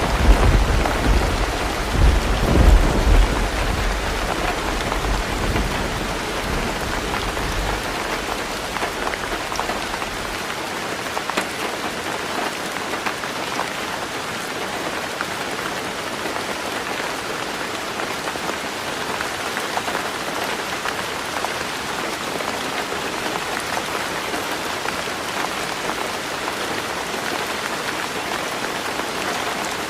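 Heavy rain drumming on a tin roof, a dense steady patter. A roll of thunder rumbles loudly at the start, swells again about two and a half seconds in, and dies away by about ten seconds in, leaving the rain alone.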